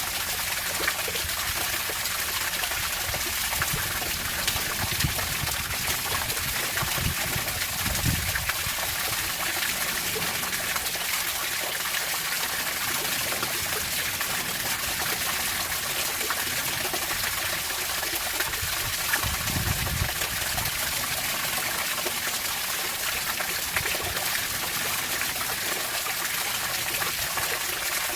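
Running water flowing steadily in an even rush, with a couple of brief low rumbles about seven and nineteen seconds in.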